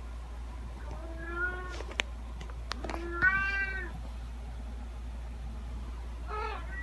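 A domestic cat meowing three times: the second meow is the loudest and the last is fainter. A few sharp clicks come between the first two meows.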